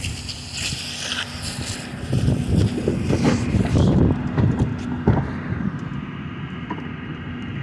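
Recycling truck at work: a hiss in the first second or so, then the engine rises in a loud low rumble with clattering and clanking from about two to five seconds in, before settling back to a steady run.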